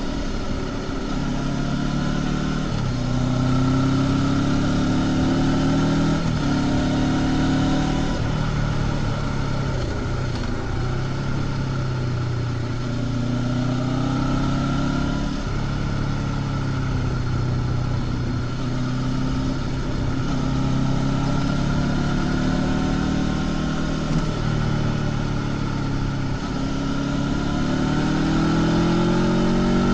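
Honda CB500X's 471 cc parallel-twin engine with stock exhaust, running on the move. The note rises and falls with the throttle, stepping in pitch several times, and climbs steadily near the end as the bike accelerates.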